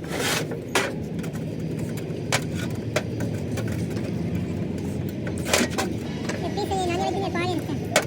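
Engine-repair workshop noise: a steady low rumble with sharp knocks every second or two, and a short wavering voice-like sound near the end.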